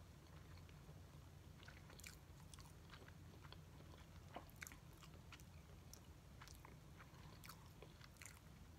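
Faint chewing of a mouthful of crispy fried chicken sandwich, with scattered soft crunches and mouth clicks over a low steady hum.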